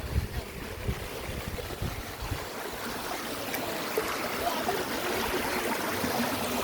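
Stream water flowing over rocks in a steady rush, with low gusts of wind on the microphone in the first couple of seconds.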